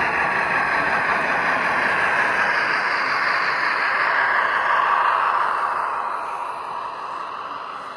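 Model train running along a layout track, the motor and wheel noise building and then fading away after about five seconds.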